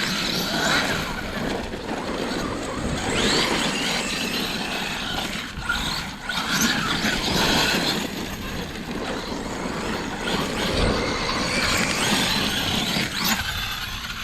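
Electric 30° North 5T large-scale RC truck on a 12S battery, its brushless motor whining up in pitch again and again as the throttle is punched, over a steady noisy rush.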